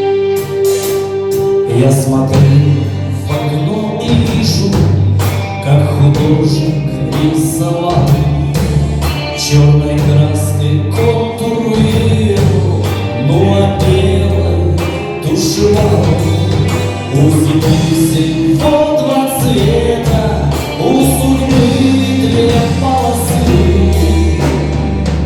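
A live rock band playing, with a steady drum-kit beat, a prominent bass line and a melody line on top.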